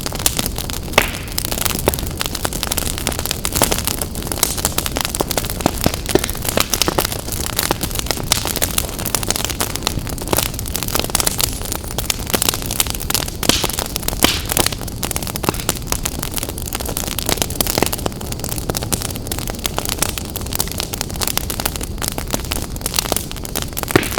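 Wood fire burning in a fireplace, crackling with many quick sharp pops over a steady low rush of flame.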